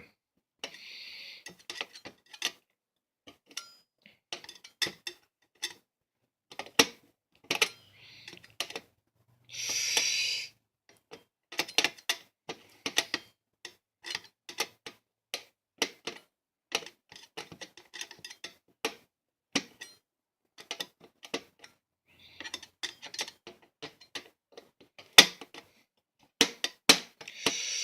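Hand tool working a tight screw out of a box fan's casing: irregular sharp clicks and scrapes as the tip slips and catches in the screw head, with a few short hissing scrapes. The screws are stuck fast and need hard downward pressure to turn.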